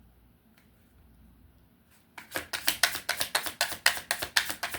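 A tarot deck being shuffled by hand: after a short quiet, a quick run of crisp card slaps, about six a second, starts about two seconds in.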